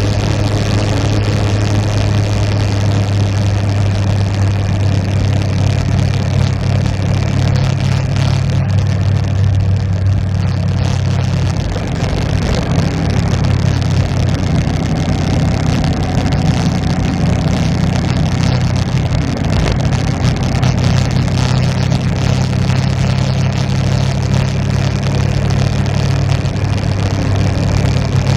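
Motorcycle engine running continuously under way, its note stepping higher about twelve seconds in.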